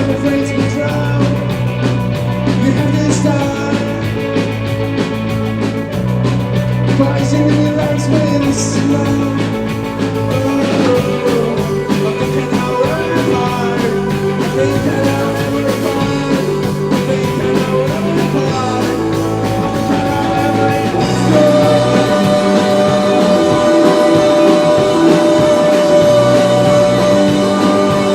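Rock band playing live: loud distorted guitars, bass and drums, with sung vocals in places. The band fills out and gets louder about three quarters of the way through.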